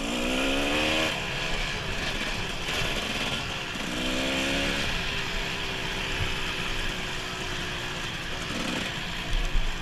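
Dirt bike engine pulling as it is ridden, its revs rising in the first second and again about four seconds in, then holding steadier, with wind rush over it. A few sharp knocks come near the end.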